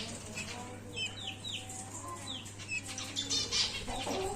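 Budgerigars calling: a few short falling chirps, then a burst of rapid chattering calls about three and a half seconds in.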